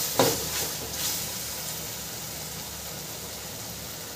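Onion-tomato masala sizzling in oil in a steel kadai on a high flame. A spatula scrapes and knocks against the pan a couple of times in the first second, then only the steady hiss of the frying is left.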